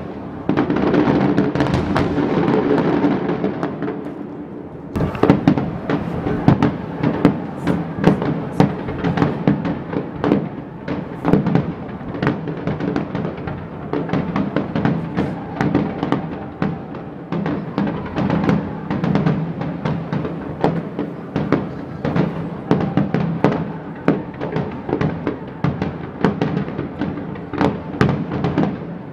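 Fireworks display: a crackling shower that fades over the first few seconds, then a rapid, continuous run of sharp bangs and cracks from about five seconds in. Music plays steadily underneath.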